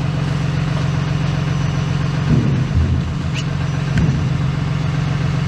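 An engine running steadily with a low, even hum. There are a few soft knocks and bumps about two and a half to four seconds in, and a short rising squeak.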